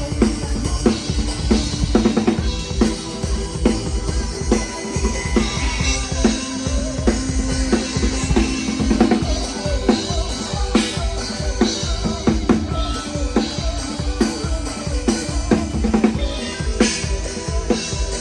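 A PDP drum kit played live in a band, kick drum and snare with rimshots keeping a steady driving beat over the band's other instruments.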